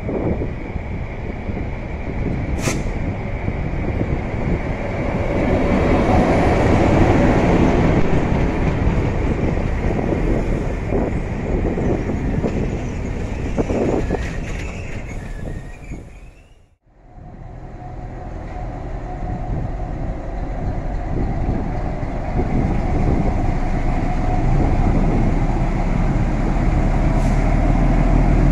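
Diesel passenger train arriving, with the locomotive and coaches rolling past at low speed. After a break about 17 seconds in, the diesel locomotive's engine runs under power as the train pulls away, a low rumble that grows louder near the end.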